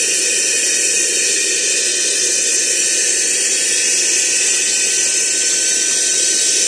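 Aspiring Windstorm 3 car vacuum cleaner running steadily: a high-pitched motor whine over the rushing hiss of its airflow as it sucks up debris through the bare nozzle.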